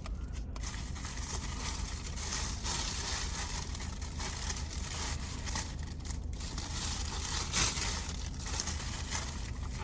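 Continuous rustling and crinkling of takeout food packaging being rummaged through, over a steady low hum.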